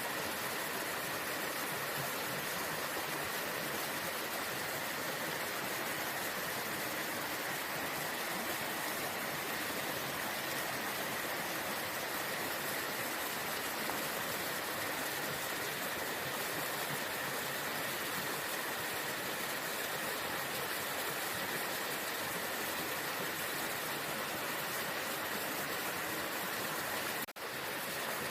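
Waterfall: falling water rushing in a steady, unbroken roar, with a momentary dropout near the end.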